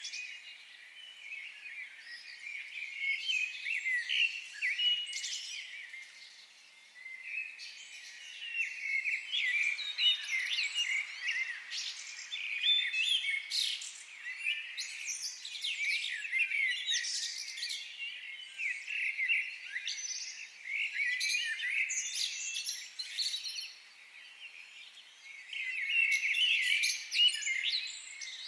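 Several songbirds singing and chirping together in a forest, a dense chorus of quick high chirps and short trills that comes in bouts with brief lulls.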